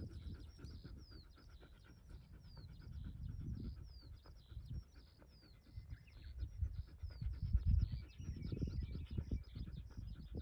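Birds calling: many short, quickly falling chirps repeated throughout. Under them, louder low thumps and rustling close to the microphone swell about three and eight seconds in.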